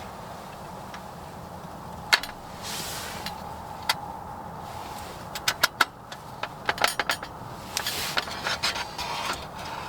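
Handling noises: a scatter of small sharp clicks and clinks, bunched in a quick run in the middle, with a few short rustles, as parts and packaging are handled.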